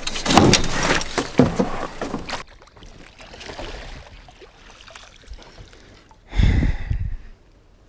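Splashing and rapid knocking on and around a kayak as a caught smallmouth bass is handled, for about two and a half seconds. Then it goes quieter, with a short rushing burst about six seconds in.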